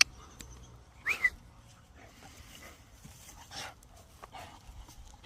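Dog giving one short, high whine about a second in, with faint clicks and rustles around it.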